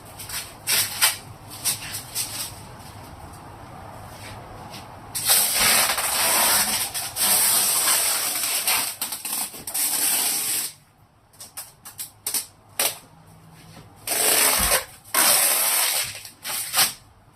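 Tape being pulled off a roll in noisy ripping pulls: a few short ones at first, one long pull of about five seconds in the middle, then two more short pulls near the end.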